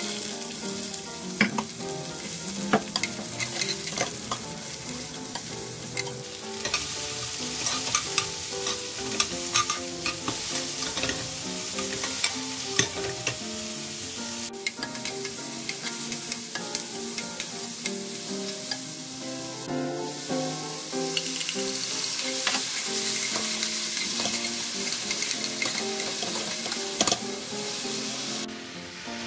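Sliced zucchini, button mushrooms and onion sizzling as they are stir-fried in a nonstick frying pan, with frequent clicks and scrapes of a utensil stirring them. The sizzle grows louder in the second half, with the chili-and-soy seasoning in the pan.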